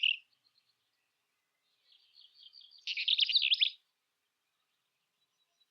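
Eastern black-eared wheatear singing: the tail of one scratchy, high song phrase right at the start, then about two seconds in a soft twittering that runs into a louder, scratchy warbling phrase lasting under a second.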